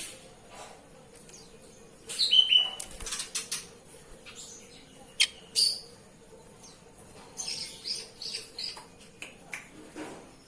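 Oriental magpie-robin giving short chirps and whistles, with bursts of wing flapping as it bathes.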